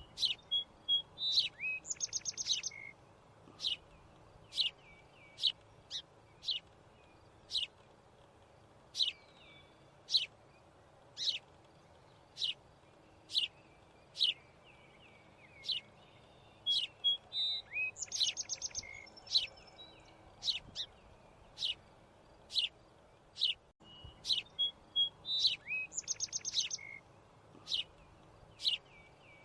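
Small birds chirping: short, high chirps about once a second, with quicker trilled phrases now and then.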